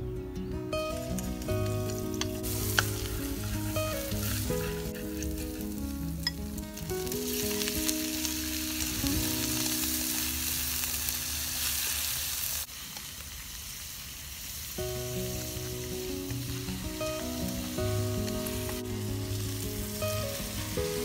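Pork intestine and minced garlic and shallots sizzling in hot oil in a wok, stirred with chopsticks. The sizzle is loudest over the first half and drops suddenly a little past the middle. Background music with a melody plays over it.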